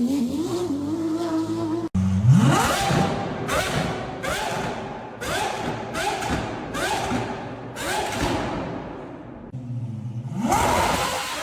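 Performance car engine sounds: one engine running, then after a sudden cut another engine revs up and is blipped over and over, a sharp crack with a short rise in pitch roughly every half second to second, before revving up again near the end.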